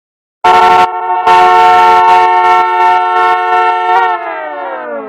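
DJ air-horn sound effect: a short blast, then a long held blast that pulses rapidly. About four seconds in, its pitch drops away in a long falling glide as it fades.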